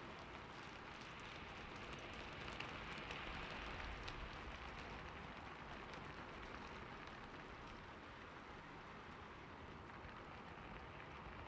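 Steady rain falling on a roof, an even patter with faint scattered drop ticks, slightly heavier a few seconds in.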